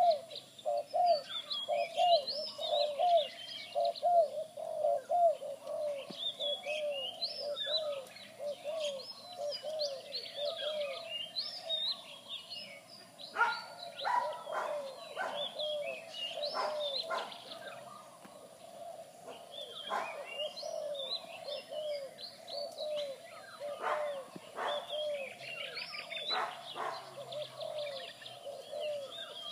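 Zebra doves (merbuk) cooing: long runs of short, quickly repeated low coos, with small birds chirping and twittering at higher pitch throughout.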